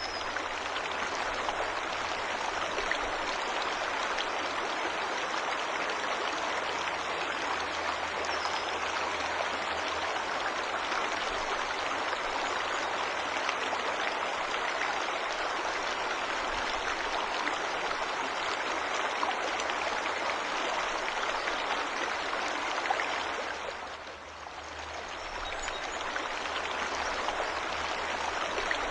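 Waterfall water rushing in a steady, even wash. The level dips briefly about three-quarters of the way through and swells back.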